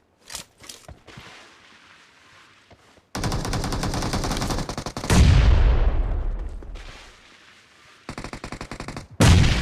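Video game automatic gunfire in rapid bursts, broken by loud, deep booms that ring out and fade over a couple of seconds.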